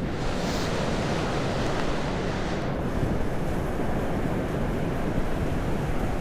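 Ocean surf breaking and washing up the beach, mixed with wind rumbling on the microphone. A brighter hiss of the wash fades out about two and a half seconds in.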